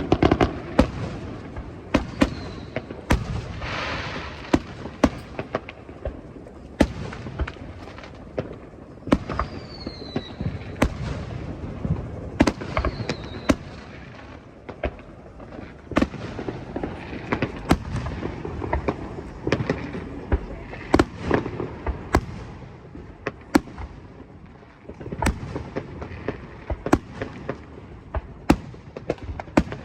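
Fireworks display: a rapid, irregular run of sharp bangs and crackling bursts, with a few short falling whistles among them.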